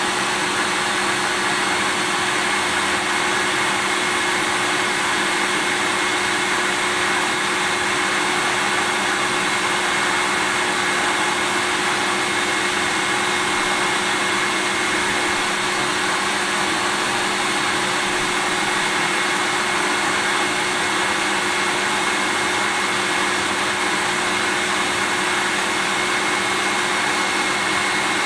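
Vacuum cleaner running steadily: an even, unbroken motor hiss with a constant hum and a thin high whine.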